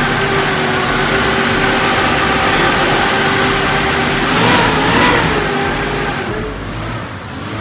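The jeep's petrol engine running in a garage, just brought to life after months of standing. It swells briefly in pitch and loudness about four and a half seconds in, then grows quieter near the end.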